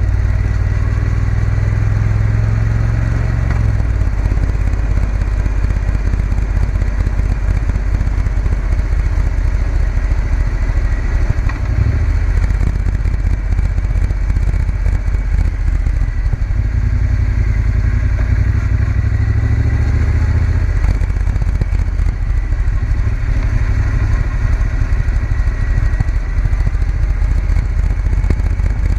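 Triumph Bonneville T120's parallel-twin engine running steadily while the motorcycle is ridden. The engine note changes a few times, around 4 seconds in and again between about 16 and 21 seconds.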